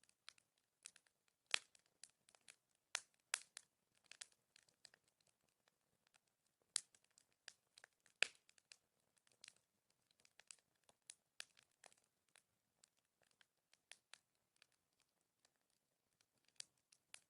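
Bonfire crackling: burning wood giving faint, irregular snaps and pops, with two louder pops about a second and a half in and about eight seconds in.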